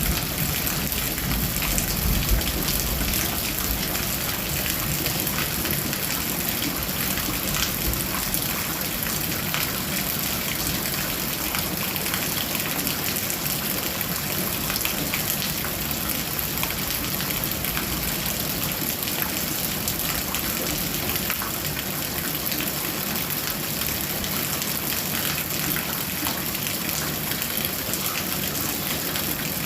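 Heavy rain falling as a steady, dense hiss, with a low rumble dying away in the first couple of seconds.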